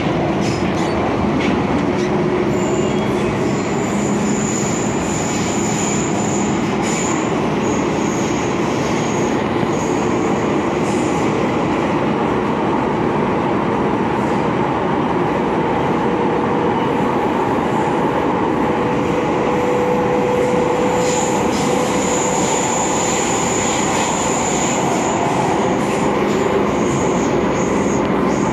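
An MTR Kwun Tong Line M-Train (Metro-Cammell electric multiple unit) running between stations, heard from inside the car as a steady loud rumble. Two spells of thin, high-pitched squeal rise over it, one early and one near the end.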